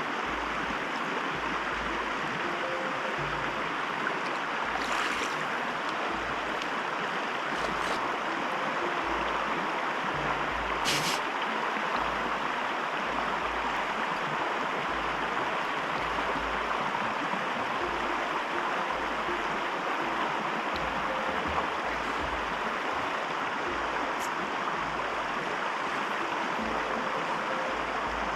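Steady rush of a small trout stream's running water, with a single sharp click about eleven seconds in.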